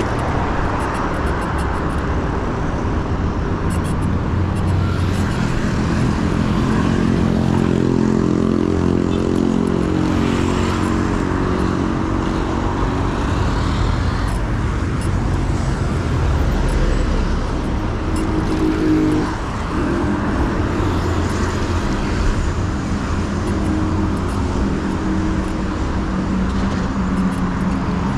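Urban road traffic heard while cycling: a steady rush of wind and tyre noise, with the drone of motor vehicle engines running alongside, growing stronger after a few seconds and dipping briefly about two-thirds of the way through.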